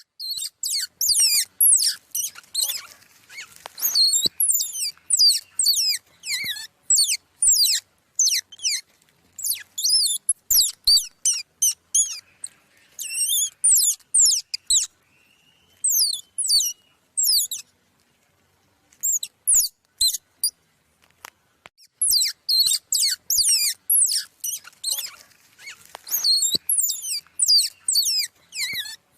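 Small birds chirping: rapid, high-pitched, short downward-sliding chirps in dense bursts, with a brief lull about two-thirds of the way through.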